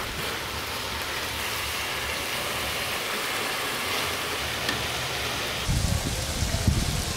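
Chicken pieces frying in oil in a large black pan, a steady sizzle as a perforated steel spatula stirs them. Low thuds come in near the end.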